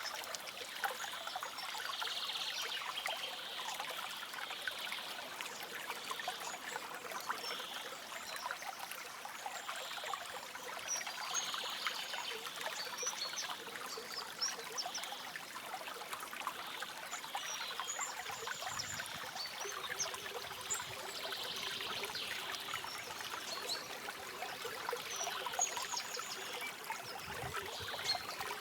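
A stream trickling and babbling steadily, with a few faint, short, high bird chirps now and then.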